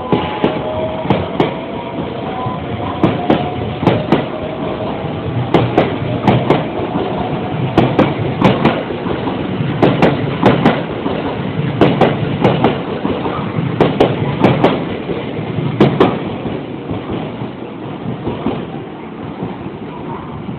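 A train running over rail joints: a steady rumble with wheels clacking in pairs roughly every two seconds. It grows louder through the middle and fades near the end.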